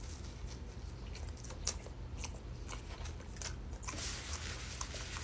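Close-miked eating sounds: scattered wet mouth clicks while chewing, with a crunchy bite about four seconds in.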